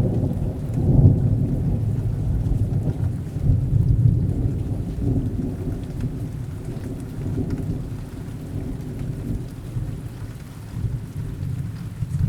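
Thunder rumbling over steady rain. It swells about a second in and again about four seconds in, then slowly rolls away.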